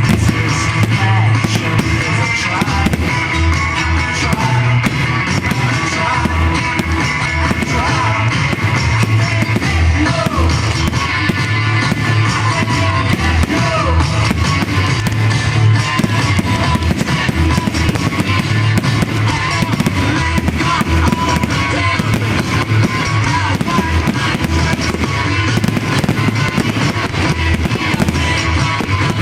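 Loud rock music with fireworks going off over it: many sharp bangs and crackles, one after another.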